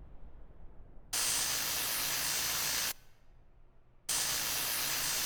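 Two long bursts of hissing, each just under two seconds, that start and stop abruptly with a short pause between them.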